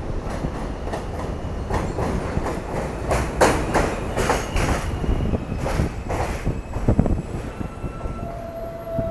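New York City subway F train running through the station, a loud rumble with wheels clacking over rail joints in a quick series of knocks. A little before the end a steady high whine sets in.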